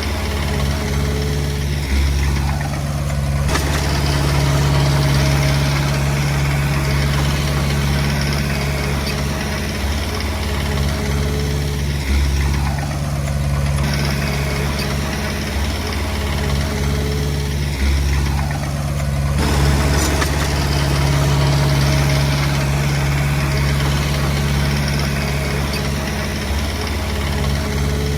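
Komatsu D20P bulldozer's diesel engine running steadily under working load. Four times its note sinks over a second or so and then jumps back up sharply.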